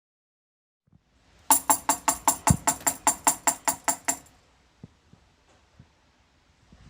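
Rhythmic percussion like a shaken tambourine or jingle: evenly spaced bright strikes, about five a second, starting about one and a half seconds in and stopping about four seconds in. Faint scattered clicks follow.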